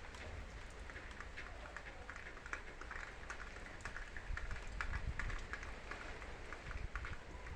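Heavy rain falling, with many small, sharp drop impacts close by over a steady hiss, and a low rumble underneath.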